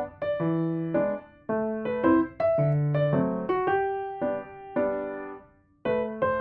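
Background piano music playing a gentle melody of single notes over a bass line. It fades out briefly about five and a half seconds in, then the phrase starts again.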